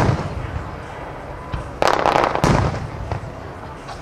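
Aerial firework shells bursting: a sharp boom right at the start, a crackling burst just under two seconds in, and another boom about half a second later, each fading out briefly.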